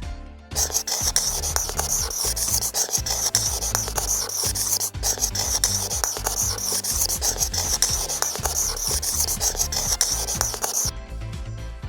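A long, loud hissing, scraping sound effect over background music, starting about half a second in and cutting off suddenly about eleven seconds in.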